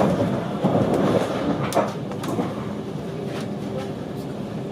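Ride noise inside a Deutsche Bahn Intercity 2 Twindexx double-deck coach at speed: a steady rolling rumble, with a few sharp clicks of the wheels over the track in the first two seconds, then smoother running with a faint steady hum.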